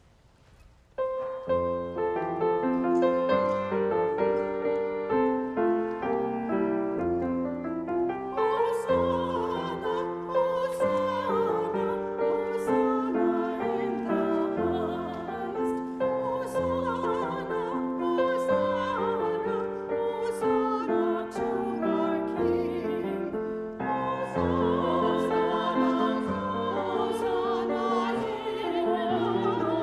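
Church music: a keyboard starts playing held chords about a second in, and singing with vibrato joins about eight seconds in over the accompaniment.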